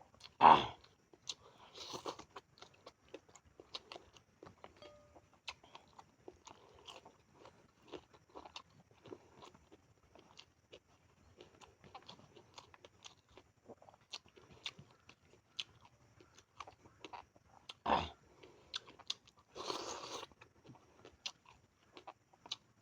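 A person chewing and crunching food close to the microphone, a mukbang meal of tamban sardines with corn rice, with many small irregular mouth clicks and smacks. There are two louder sharp sounds, about half a second in and near 18 seconds, and a short noisy burst around 20 seconds.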